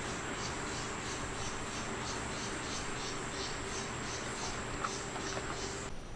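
Crickets chirping: a steady high trill with pulsed chirps about three times a second, cutting off abruptly near the end.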